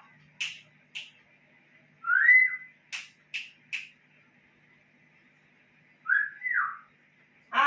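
Pet birds calling: short sharp chirps scattered throughout, and twice a loud whistled call that rises in pitch, over a faint steady hum.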